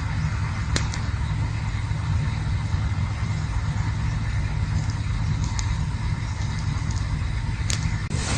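Campfire burning: a steady low rumble with a few sharp crackles, one about a second in and another near the end.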